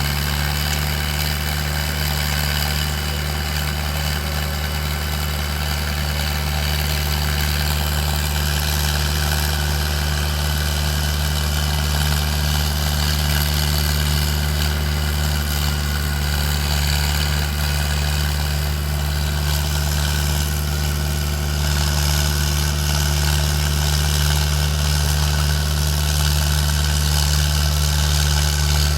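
Mahindra Arjun 555 tractor's four-cylinder diesel engine idling steadily.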